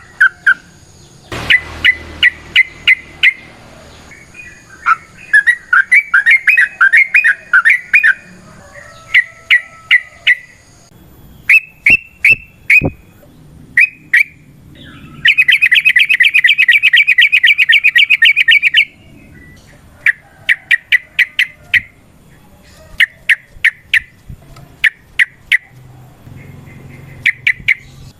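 Yellow-vented bulbul singing: loud groups of short, sharp chirps, with a long rapid trill of about three and a half seconds past the middle.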